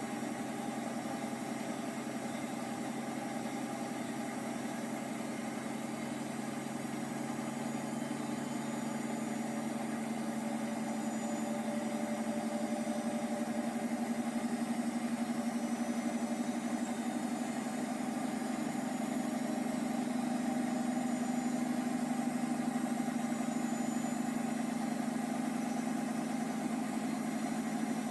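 Hotpoint HE8L493 8 kg washing machine running on its Fastwash Eco cycle: a steady motor hum that grows a little louder over the second half.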